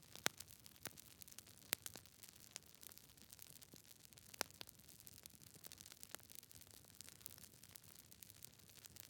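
Fireplace fire crackling softly: irregular sharp pops and snaps over a faint steady hiss, with the loudest pops about a quarter second in, near two seconds and near four and a half seconds.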